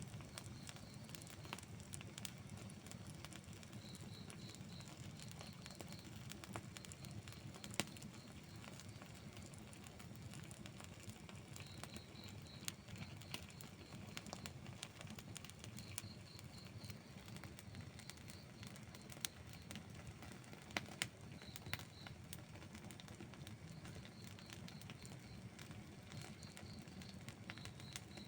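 Wood campfire burning faintly, crackling with scattered small pops over a low steady rumble, a few sharper pops standing out. Short runs of three or four high chirps recur throughout.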